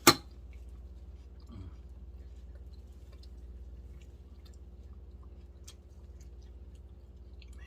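Chewing and eating noises from people eating smoked chicken, with scattered faint small clicks over a steady low hum. A single sharp knock right at the start is the loudest sound.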